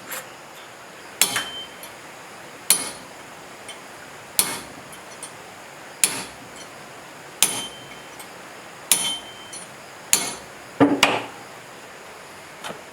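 Hammer blows on metal, about eight sharp strikes spaced roughly a second and a half apart, several leaving a brief high metallic ring. The last strikes come in a quick cluster.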